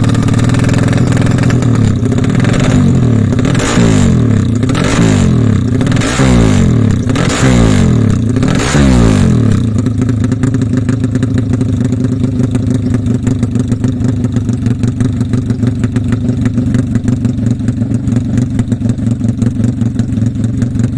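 Motorcycle with a Herex aftermarket exhaust idling, then blipped through a run of quick throttle revs that rise and fall for about seven seconds before it settles back to a steady idle.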